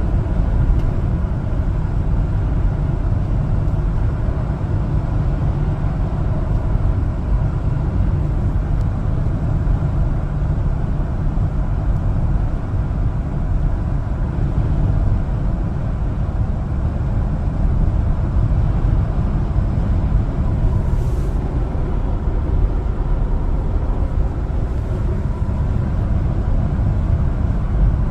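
LPG-fuelled one-ton cargo truck driving on the road: a steady, unbroken rumble of engine and road noise.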